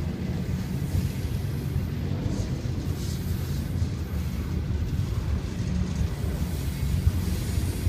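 Double-stack intermodal freight cars of a Florida East Coast Railway train rolling past at a crawl, about 7 mph. Their wheels on the rails make a steady low rumble with no clear clickety-clack rhythm.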